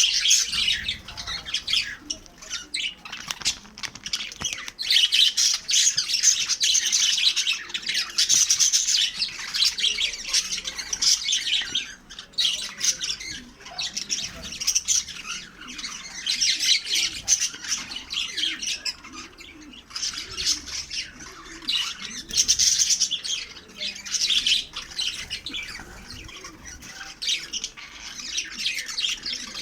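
Lovebirds chattering and squawking in rapid, high-pitched bursts, with short lulls between the bouts.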